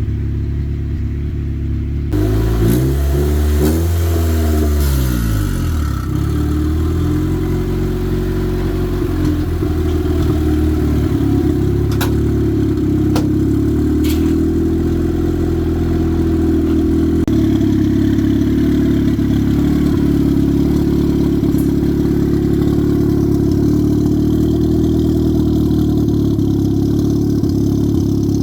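Turbocharged Honda Civic engine running. Its pitch swings up and down a few seconds in, then it idles steadily, with a couple of sharp clicks near the middle.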